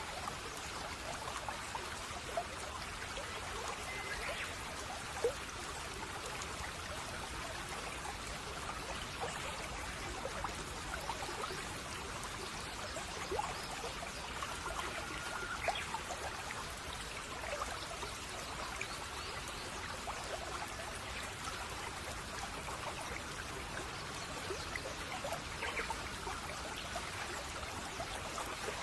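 Babbling stream, water trickling and splashing steadily over stones. A few faint, short bird chirps come through now and then.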